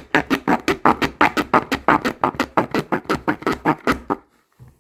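Hand file rasping quickly back and forth on a tough plastic case, about eight or nine short scraping strokes a second, stopping abruptly about four seconds in.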